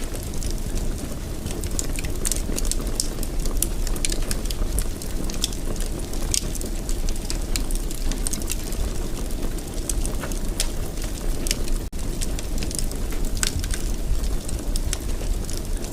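Wood fire crackling in a fireplace: a steady low rumble of burning with frequent sharp, irregular pops and crackles. The sound cuts out for an instant about twelve seconds in.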